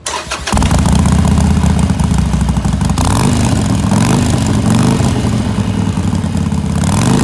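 Harley-Davidson Sportster XL883N Iron's air-cooled V-twin with a Khrome Werks aftermarket muffler, catching about half a second in and then idling loudly through the exhaust, its pitch rising and falling slightly.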